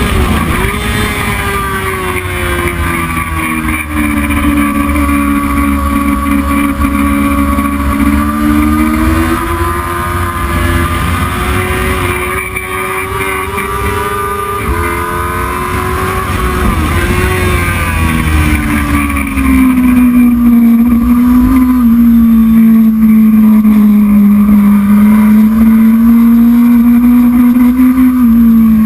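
Heavyweight-class racing motorcycle engine running hard, its pitch climbing and dropping with throttle and gear changes, over a low wind rumble. From about twenty seconds in it gets louder and holds a steady high note.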